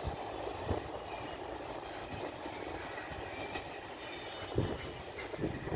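Passenger train moving away along the track: a steady rumble of wheels on rail, with a few knocks as the wheels cross rail joints.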